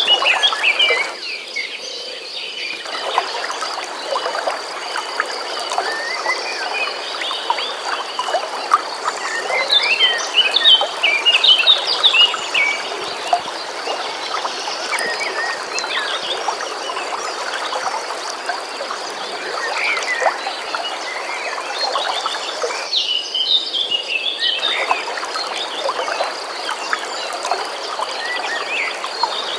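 Birds chirping in scattered bursts over a steady rush of flowing stream water, with a thin high steady trill running under it. The water sound briefly thins twice.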